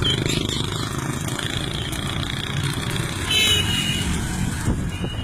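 A motor vehicle engine running steadily with road noise. About three and a half seconds in there is a short, high, wavering call.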